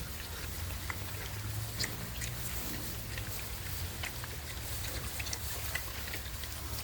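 Baby black pigs moving about and foraging: scattered small clicks and rustles over a steady low rumble.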